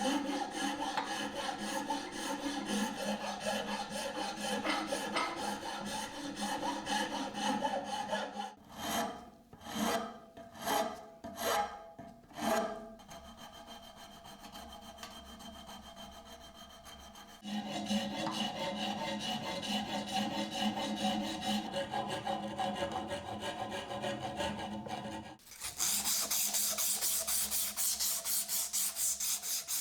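Hand abrasive strokes rubbing on wood, like a file or sandpaper working a wooden knife handle. There is a steady run of strokes, then about five separate slower strokes in the middle, a quieter stretch, more rubbing, and brighter, hissier strokes near the end.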